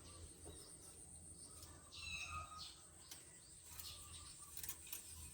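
Faint outdoor background with a few short bird chirps about two seconds in, a steady thin high-pitched tone, and a few light clicks near the end.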